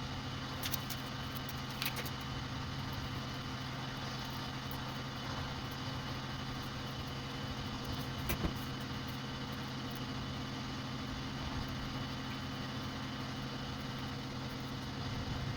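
A steady low machine hum, with a few sharp clicks a little under a second in, about two seconds in, and around eight seconds in.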